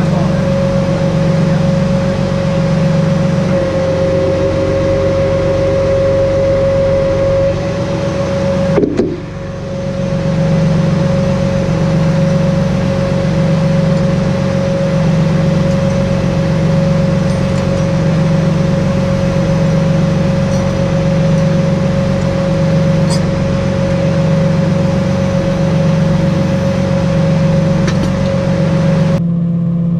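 Freightliner rollback tow truck's engine running steadily, with a steady whine over it. The sound breaks off abruptly about nine seconds in, then resumes, and changes abruptly again near the end.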